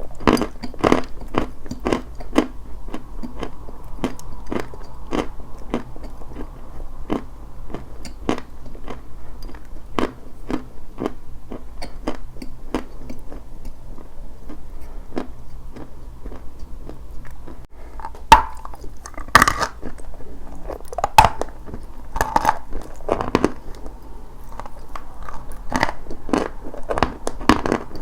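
Dry white chalk being chewed close to the microphone: a steady run of crunchy chewing strokes, about two a second, with a few louder, sharper bites past the middle.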